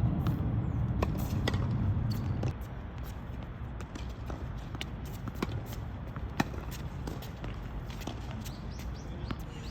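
Tennis rally: scattered sharp pops of a ball struck by rackets and bouncing on the court, with the scuff of players' footsteps; the loudest hit comes about six and a half seconds in. A low rumble is heard under the first two and a half seconds, then drops away.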